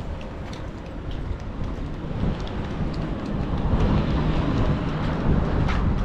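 Street traffic noise: a steady low rumble of passing vehicles that swells somewhat after the middle, with scattered small clicks and knocks over it.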